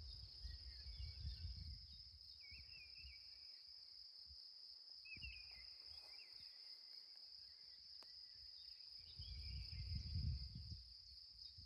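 A steady high insect trill, like crickets, runs throughout, with a few short bird chirps about two and five seconds in. Low rumbles come near the start and again, loudest, about nine to ten seconds in.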